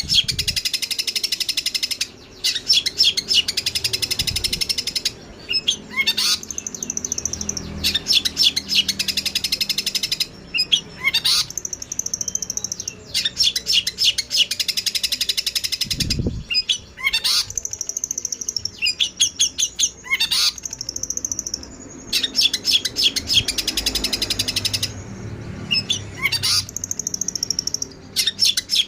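Sparrows chattering, fast agitated chirps of fighting birds in bursts of one to three seconds broken by short pauses.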